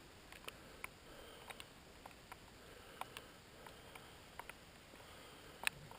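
Raindrops ticking irregularly on the wet camera, a few sharp clicks a second over a faint hiss of light rain; the loudest tick comes near the end.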